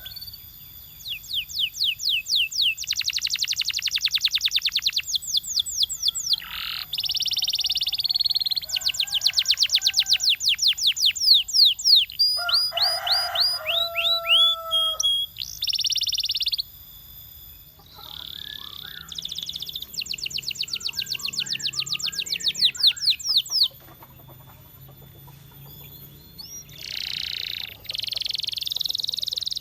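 Domestic canary singing: long trills of fast repeated sweeping notes, broken by buzzy notes, a few lower whistled notes and short pauses.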